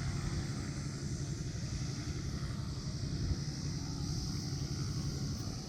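Cessna T210L Turbo Centurion's turbocharged six-cylinder piston engine and propeller running steadily, a low even drone.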